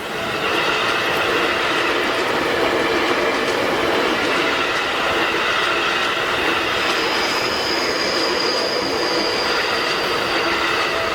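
A Seibu Shinjuku Line electric commuter train passing close over the level crossing, its wheels running over the rails for about eleven seconds. A thin, steady high wheel squeal joins in over the last few seconds.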